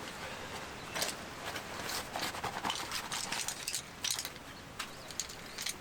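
Irregular clicks, taps and light rustles over a steady hiss, from small objects being handled.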